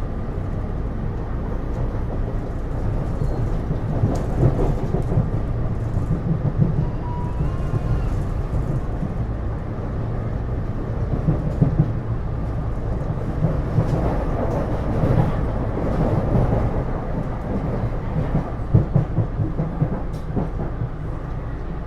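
Taipei Metro C301 metro car running, heard from inside the car: a steady low rumble of wheels on rail with faint clicks and swells in level.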